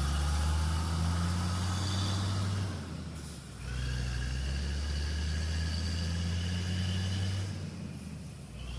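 Heavy truck engine running at a steady low pitch. Its sound drops away briefly about three and a half seconds in and again near the end.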